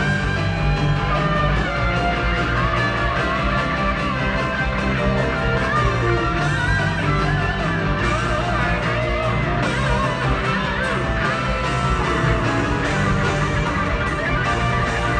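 Rock band playing, led by an electric guitar solo of quick notes bent up and down over steady bass and drums.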